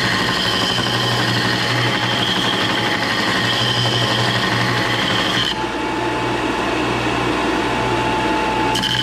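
An electric power tool running steadily under load, its motor giving a held whine. Its sound changes abruptly about five and a half seconds in and switches back near the end.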